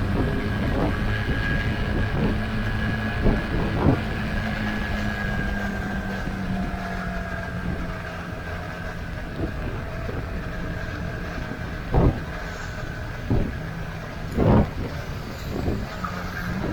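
Riding a motorcycle on a wet expressway: a steady engine and road drone with a faint, slowly falling whine. Several short loud knocks come about three, four, twelve and fourteen seconds in.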